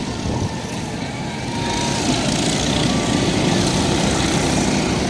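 Small mini bike engines running hard during a race, getting louder about two seconds in as the bikes come closer.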